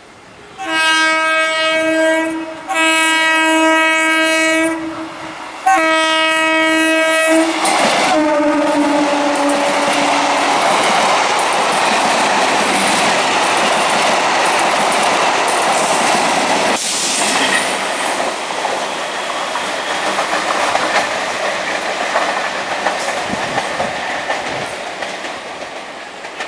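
Electric multiple unit (EMU) local train sounding its horn in three long blasts, the tone dropping lower right after the third as the cab goes by. Then the carriages rush past with the wheels clattering on the rails, the noise slowly fading.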